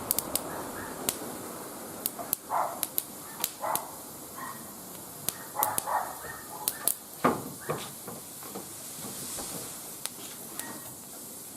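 Wood fire burning in a barbecue grill: a steady hiss with many sharp crackles and pops scattered irregularly through it.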